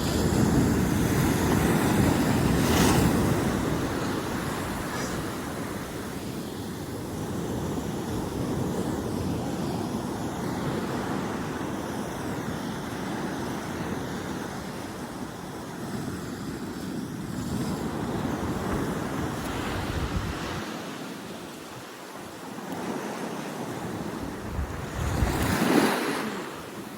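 Big ocean waves breaking and washing in, a continuous rushing roar that swells and fades, loudest in the first few seconds and surging again near the end. Wind buffets the microphone.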